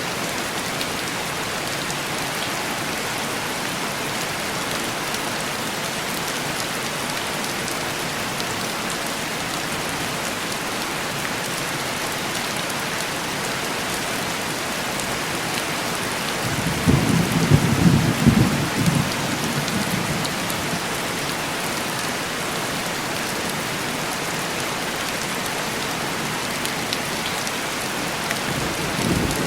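Steady heavy rain on window glass, with a rumble of thunder a little past halfway that lasts about three seconds, and another rumble starting at the very end.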